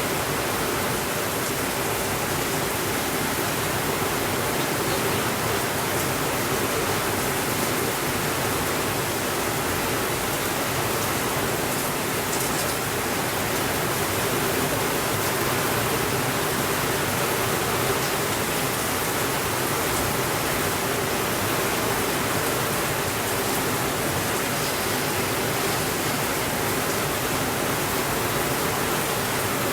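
Steady rainfall, an even unbroken hiss, with a few faint ticks.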